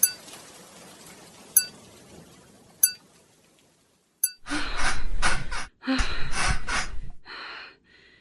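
Sound effects: a steady hiss fades away, broken by four sharp, ringing clinks about a second or so apart. About four seconds in, a few seconds of loud rustling noise starts, followed by a couple of soft breaths.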